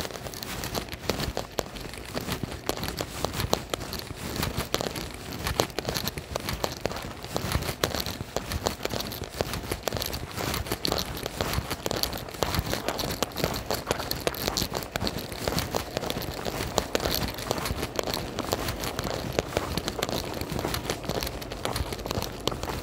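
Rain falling close to the microphone: a dense, continuous crackle of drops.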